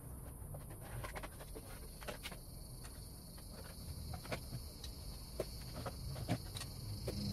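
Scattered light clicks and taps, irregularly spaced, over a steady high-pitched hiss.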